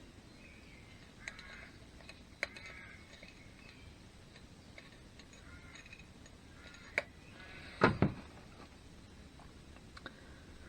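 A few light clicks and knocks of engine parts being handled, with a louder double knock about eight seconds in.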